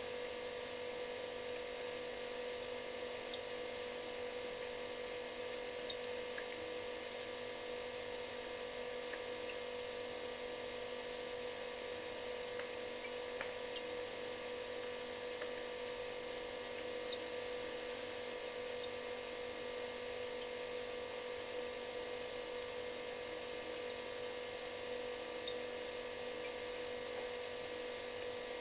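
Refrigerator running: a steady buzzing hum with one strong pitch and several fainter tones above it over a light hiss, with a few tiny ticks scattered through it.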